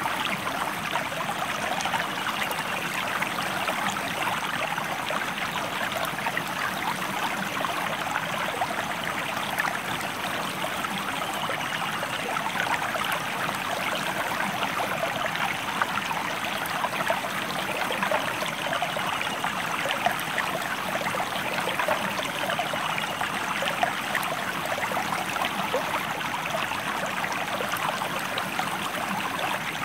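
Steady rush and trickle of a stream flowing over rocks, with small splashes here and there.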